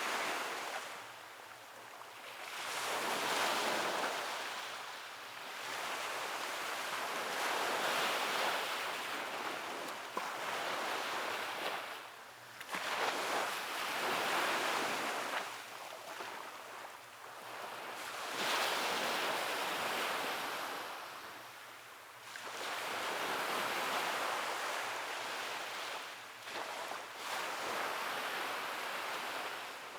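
Ocean waves breaking and washing up a beach, the surf swelling and receding in slow surges every few seconds.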